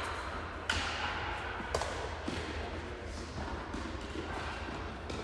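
Tennis ball impacts: two sharp hits about a second apart, then a fainter one, over steady court ambience.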